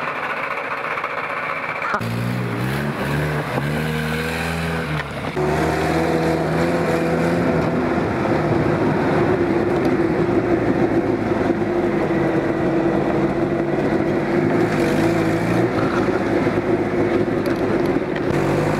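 Off-road vehicle's engine running. It picks up about two seconds in, shifts in pitch for a few seconds, then runs steadily and a little louder from about five seconds in.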